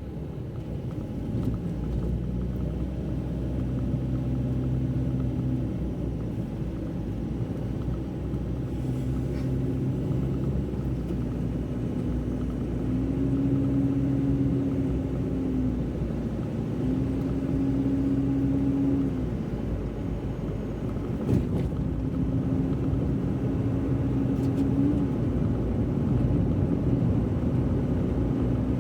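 Car driving on a road: a steady low rumble of engine and road noise, with the engine hum climbing in pitch, holding and dropping back several times as the car speeds up and eases off. A single short knock about three quarters of the way through.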